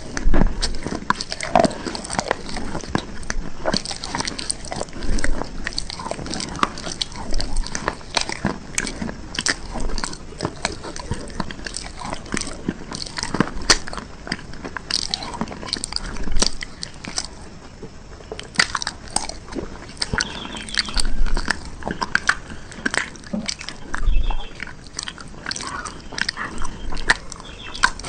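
A person biting into and chewing hard, crunchy bars close to the microphone: a steady run of irregular sharp crunches and snaps, with louder bites every few seconds.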